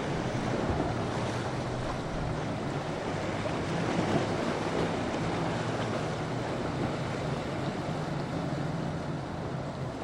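Steady wash of waves and surf with wind buffeting the microphone, under a low steady hum of boat engines.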